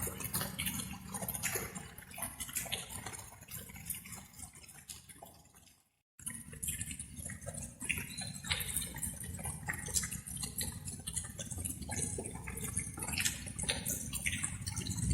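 Water dripping in irregular drops over a steady low rumble. About six seconds in, the sound fades out to a moment of silence, then comes straight back.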